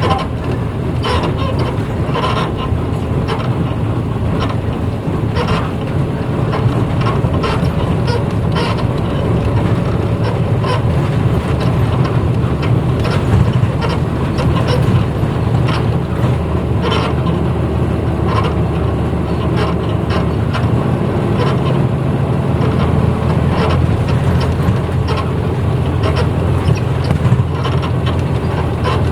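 Inside a 1994 Hino Blue Ribbon U-HT2MPAA route bus while it drives: a steady low engine drone with frequent rattles and clicks from the bodywork and fittings.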